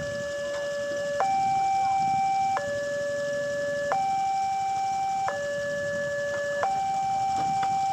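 Railway level-crossing warning alarm sounding a steady two-tone electronic signal, switching between a lower and a higher pitch about every 1.3 seconds, the warning that a train is approaching.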